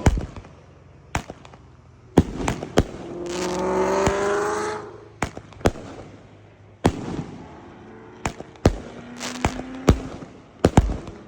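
A 'Shake and Bake' 16-shot consumer firework cake firing: about a dozen sharp bangs of shots and bursts at irregular intervals. From about three to five seconds in there is a sustained pitched whine.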